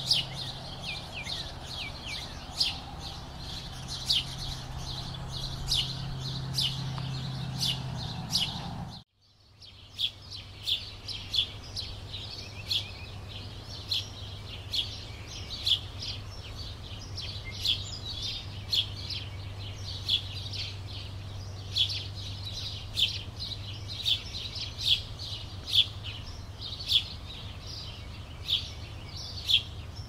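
A bird chirps over and over, short high calls about once a second, above the steady low hum of a honeybee swarm clustered on a tree branch. The sound drops out for a moment about nine seconds in, then resumes.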